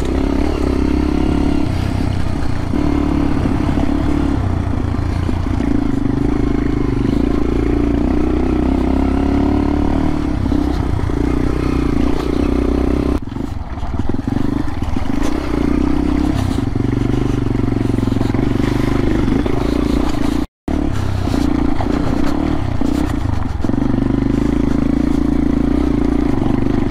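Dual-sport motorcycle engine running while riding a rough dirt track, its pitch rising and falling with the throttle. The sound cuts out for an instant about two-thirds of the way through.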